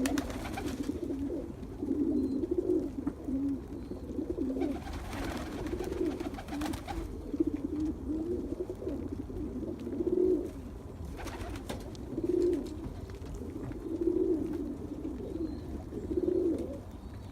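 Pigeons cooing: low, swelling coos repeated every second or two, with a couple of brief rustling bursts among them.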